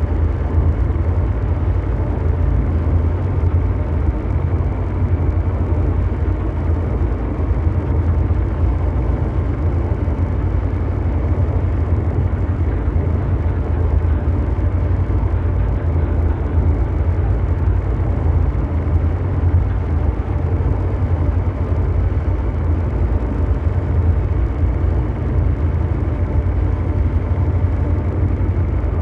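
Continuous low mechanical drone: a steady deep hum with a rumbling noise wash over it, unchanging throughout.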